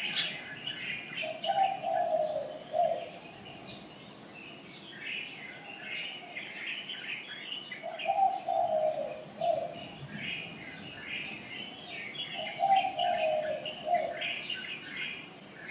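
Small birds chirping continuously, with a dove cooing three times, each a short phrase about five seconds apart.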